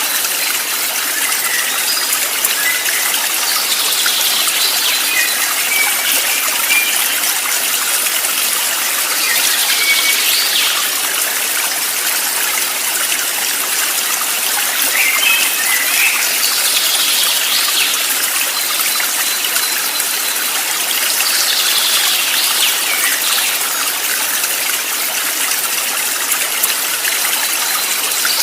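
A flowing stream, a steady rush of water. Short bird chirps come over it every five or six seconds.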